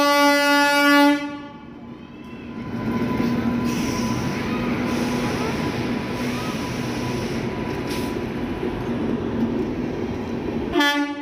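Train sound effects: a loud held train whistle blast in the first second, then the steady noise of a train running along the track. A second whistle blast starts near the end.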